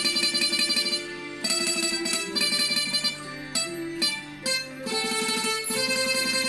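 Chakhe, the Thai three-string floating zither, playing a melody with each note picked rapidly over and over, in phrases with short breaks between them. The tone is bright and rather shrill.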